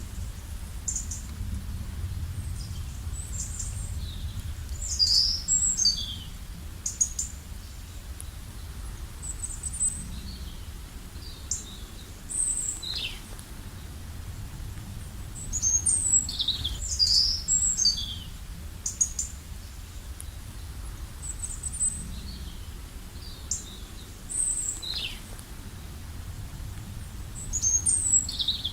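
Birds chirping and calling in short high notes and quick falling whistles, coming in clusters, over a steady low rumble.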